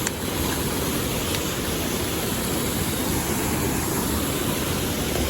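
Mountain stream water rushing, a steady even rush with no breaks.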